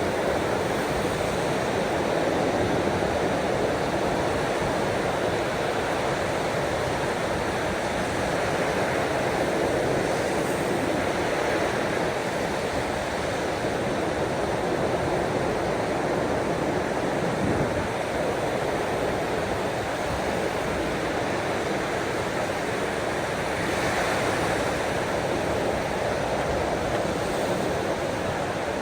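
Ocean waves washing in a steady, even rushing noise, with only slight swells in level.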